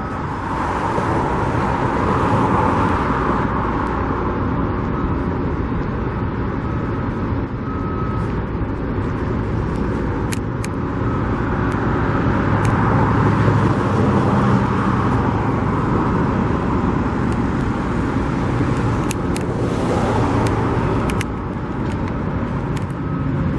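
Road traffic: a steady rumble of cars, swelling as vehicles pass.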